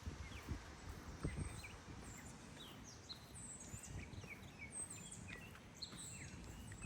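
Several small birds chirping in short, high calls, some sliding in pitch, over a faint steady hiss and soft low thumps.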